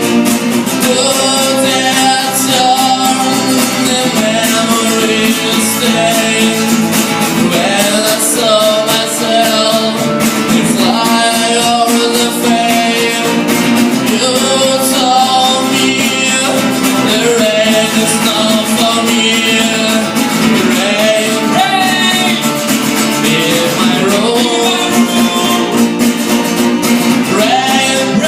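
Folk-rock song with acoustic guitar and a singing voice, playing steadily throughout.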